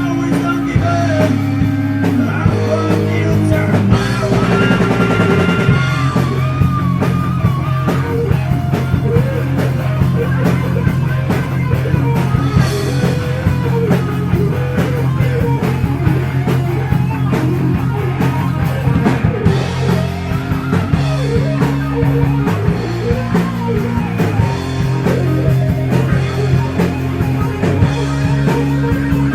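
Heavy metal band playing live: distorted electric guitars over bass and a pounding drum kit, with bending guitar lead lines and no clear vocals.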